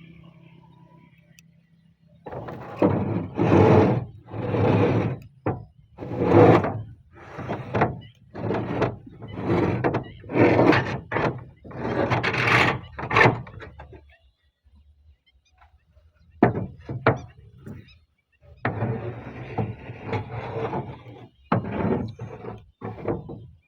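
Wood being worked by hand: a run of about a dozen rasping strokes, roughly one a second, then a pause, a steadier stretch of scraping, and a few more strokes near the end.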